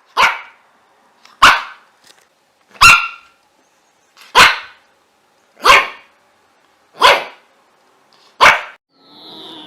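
Dog barking seven single barks, evenly spaced about one and a half seconds apart.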